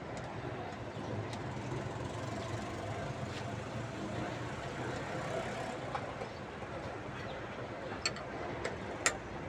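Steady low engine hum, like a vehicle idling, with two sharp clicks near the end.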